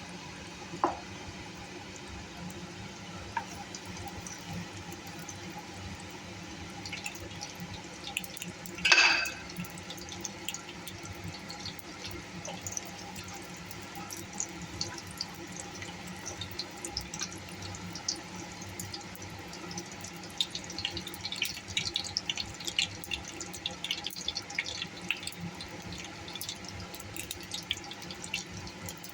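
Mustard oil heating in a nonstick kadai, with small crackles and pops that become frequent in the last third as the oil gets hot. A single ringing metal clink about nine seconds in, over a steady low hum.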